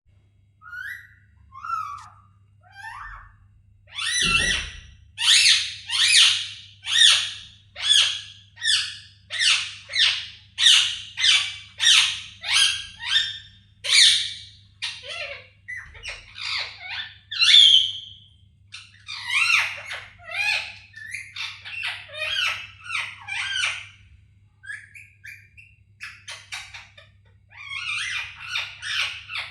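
Pet parrot squawking in a long run of short, harsh calls, more than one a second, then more varied, chattering calls. A low thump about four seconds in, over a faint steady hum.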